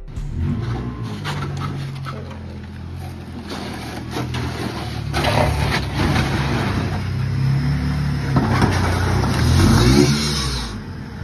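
Lowered Honda Accord's engine running, its pitch rising and falling, with a few brief harsher noises over it.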